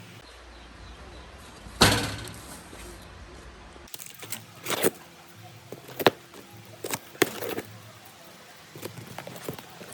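A single loud knock about two seconds in, followed by a series of lighter, irregular clicks and knocks, like hard parts being handled and set down.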